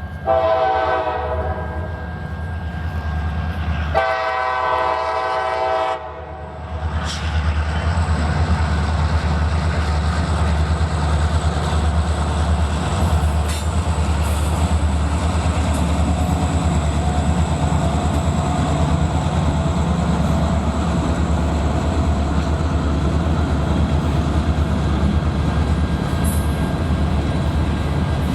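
Diesel freight locomotive's air horn sounding two long blasts, then the locomotive and its freight cars running steadily past with a continuous low rumble.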